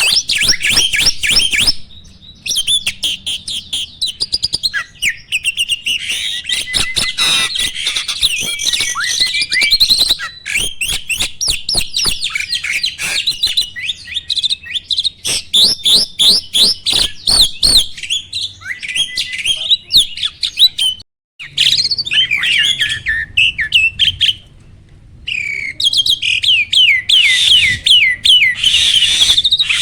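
A jalak, a songbird of the starling family, singing a long, rapid song of quick falling whistles, chatter and clicks, with short breaks about 2 seconds in, about 21 seconds in and around 25 seconds in.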